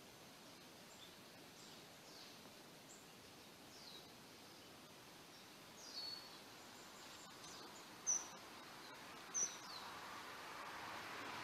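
Faint outdoor ambience with scattered short bird chirps, the two loudest a little past the middle. A soft hiss swells near the end.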